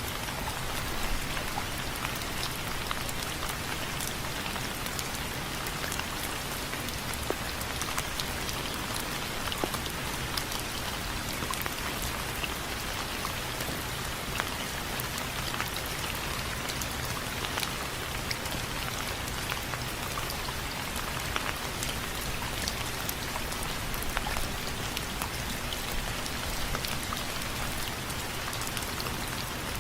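Steady rain falling on window frames, a constant hiss with many separate drops tapping.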